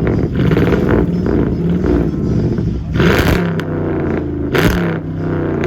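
2007 Chrysler 300 engine revved repeatedly through its exhaust in a loudest-exhaust contest, rising and falling, with two sharp bursts about three and four and a half seconds in.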